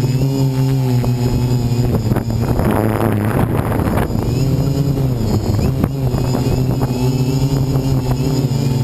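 DJI Flame Wheel 450 quadcopter's brushless motors and propellers humming close up, the pitch rising and falling as the Naza flight controller corrects against high wind. A rush of wind noise swells about two to four seconds in.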